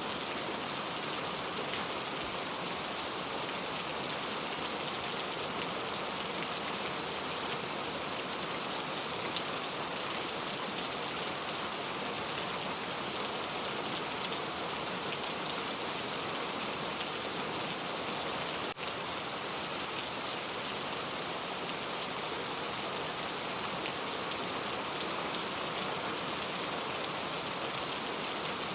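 Steady, dense rainfall: an even hiss of many drops with no let-up, with a single brief click about two-thirds of the way through.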